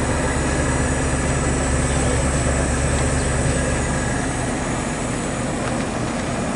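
Ductless mini-split outdoor unit running: a steady low hum from the compressor and fan with a constant airy hiss.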